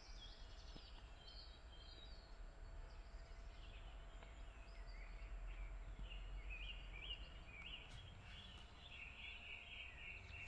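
Small birds chirping and singing over a faint steady low rumble, with a quick run of repeated notes near the end.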